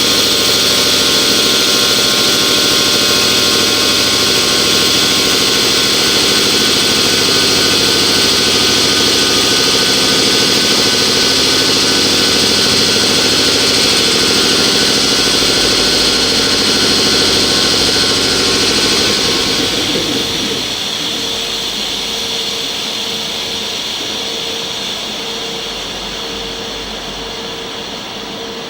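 Double-headed EF64 electric locomotives running with a loud, steady whir of motors and cooling blowers, which drops away about twenty seconds in.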